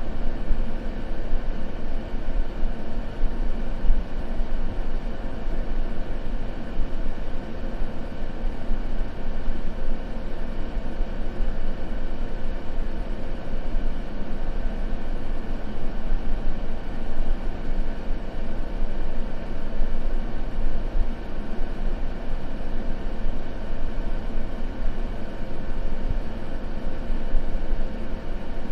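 Continuous white noise, a steady unchanging rush that is heaviest in the deep low end, like a dull rumble.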